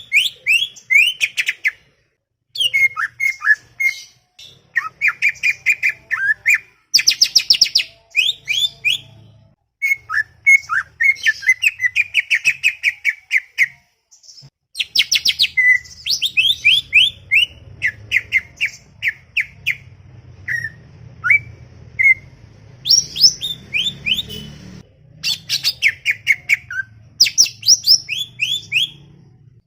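Greater green leafbird (cucak ijo) singing a busy, chattering song: rapid runs of quick sweeping whistled notes in phrases of one to three seconds, with brief pauses between them.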